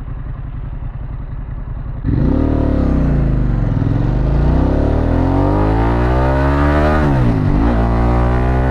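Harley-Davidson Pan America's Revolution Max 1250 V-twin through a Vance & Hines exhaust. It runs steadily at low revs, then opens up hard about two seconds in under full throttle, and the revs climb. Near the end the revs drop sharply at a gear change and climb again, under rising wind rush.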